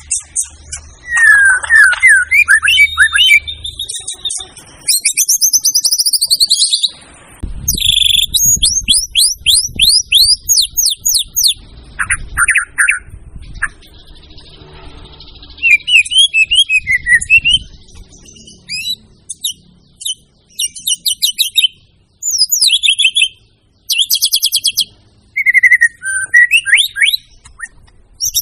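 White-rumped shama (murai batu) in full, loud song. It delivers a long string of varied high phrases: fast runs of repeated notes, sweeping whistles and rapid trills, separated by short pauses.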